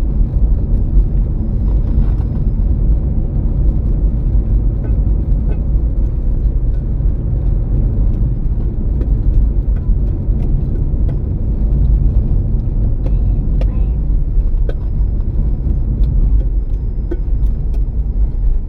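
Steady low road rumble of a 2007 Toyota Prius driving along, heard from inside the cabin, with a few faint ticks.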